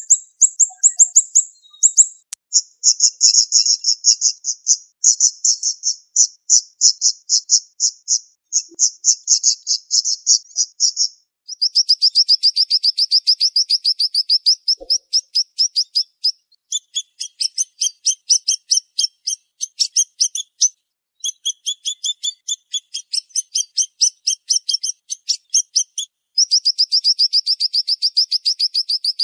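Siri-siri songbird singing fast, tightly packed runs of sharp, high chirps, with a few brief breaks between runs.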